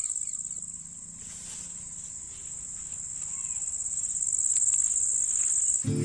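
An insect trilling steadily at a high pitch, a fast, even pulsing buzz, with background music cutting in near the end.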